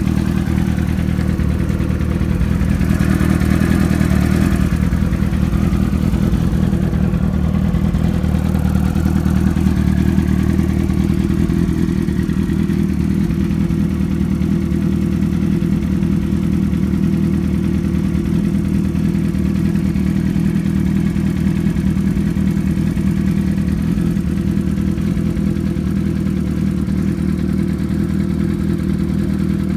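Engine idling steadily just after a cold start, not yet warmed up.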